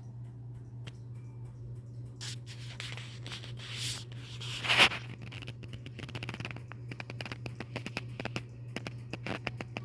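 Irregular small clicks and scratching sounds over a steady low hum, with one louder rustle just before the middle.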